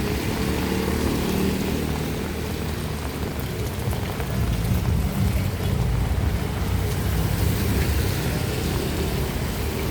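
Street traffic going by: a steady low rumble of vehicle engines and tyres.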